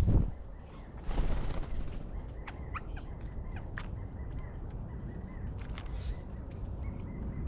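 Wild birds at a backyard feeder: a scratchy burst about a second in, then a few short, scattered chirps and calls over a low steady rumble.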